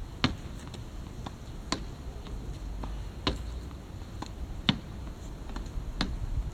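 Badminton racket striking a shuttlecock over and over, a sharp crack about every second and a half, five times, over a low rumble.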